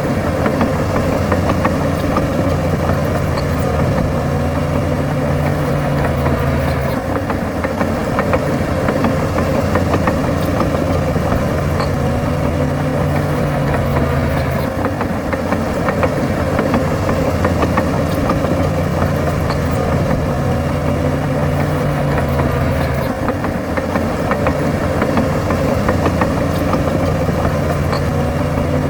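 Bulldozer's diesel engine running steadily under work, its engine note shifting every seven or eight seconds.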